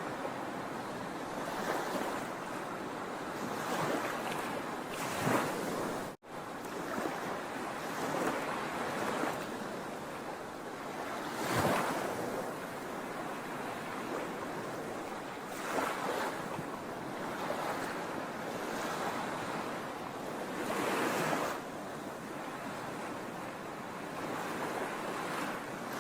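Sea waves breaking on the shore: a continuous wash of surf with louder surges every few seconds as waves come in. About six seconds in, the sound drops out for a split second.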